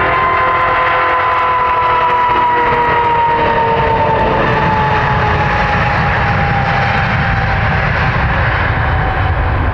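Jet airliner's engines passing close: loud, steady engine noise with a high whine that slides slowly down in pitch.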